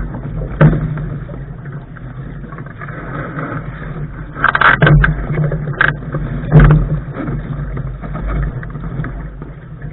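Wind buffeting the microphone and water rushing along a Lark sailing dinghy's hull, a steady noisy rumble. Several sharp knocks stand out, one just under a second in and a cluster around the middle.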